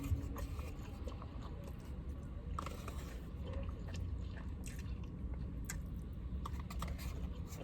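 Close-miked chewing of a mouthful of teriyaki chicken, rice and greens, with moist mouth sounds and small smacks and clicks.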